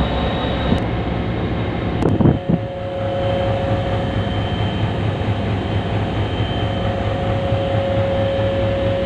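HGMU-30 diesel locomotive running with a steady low hum, with a brief clunk about two seconds in, after which a steady whine joins the engine sound.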